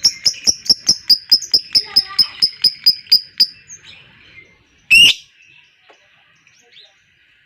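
Lovebird 'ngekek' chattering: a fast, even run of sharp chirps, about six a second, that stops after about three and a half seconds, followed by one loud squawk about five seconds in.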